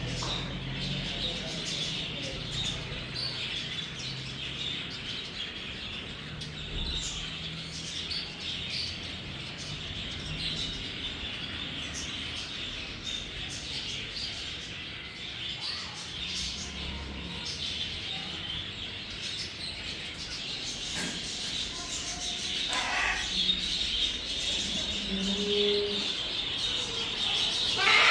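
Birds chirping and calling continuously, with many short chirps and a few louder calls near the end.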